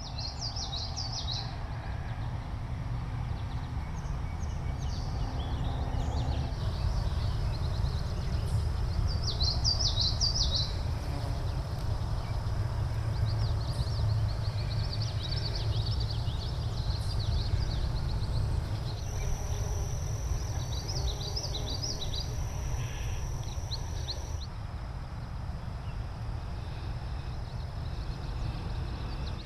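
Songbirds singing in short, high, chirpy phrases that come and go over a steady low rumble, with a thin, steady high-pitched buzz from about 19 to 24 seconds in.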